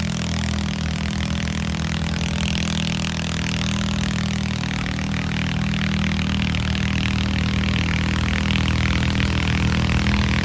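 Tractor engine running steadily with a heavy noise haze over it, slowly getting louder.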